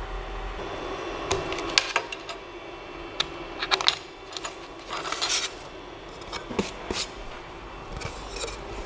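A small CNC engraver's spindle hum dies away about a second in, followed by a series of sharp, light metallic clinks and clicks, scattered irregularly with a few small clusters.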